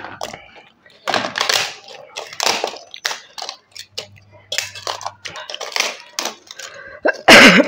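Close-miked eating of crunchy food: repeated crisp crunching bites and chewing, ending in a loud burst near the end.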